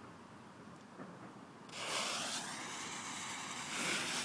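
A lit firework starts hissing suddenly about two seconds in: a steady, spraying hiss that keeps going.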